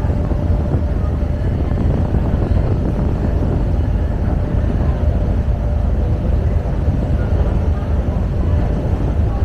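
Passenger ferry under way: a steady low rumble of the ship's engines and passage through the water, with a faint steady hum over it.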